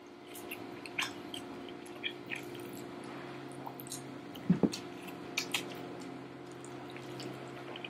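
Close-up eating sounds: chewing a dumpling and jajangmyeon (black bean noodles), with many short wet mouth clicks and smacks. A steady low hum runs underneath.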